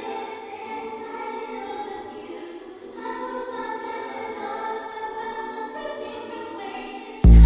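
Choral music: a choir singing long held chords. Near the end, loud music with a heavy bass comes in abruptly.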